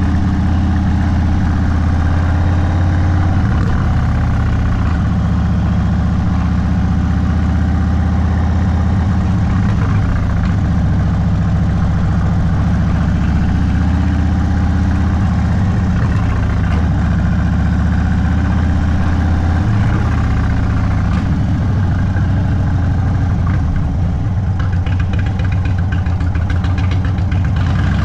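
Indian Sport Chief's V-twin engine, stage 2 tuned and breathing through a Sawicki Speed exhaust, running steadily at low revs. Its deep note shifts pitch a couple of times.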